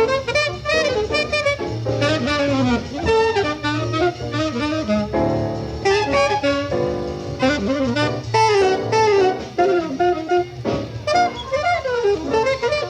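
Bebop jazz from a live recording: a fast saxophone line over bass and drums.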